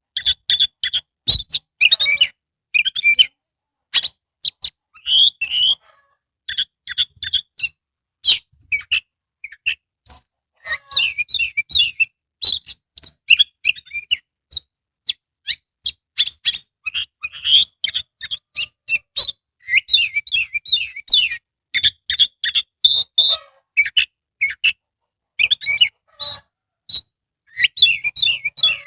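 Oriental magpie-robin (kacer) singing loud, varied phrases of rapid sharp notes and whistles, broken by short pauses.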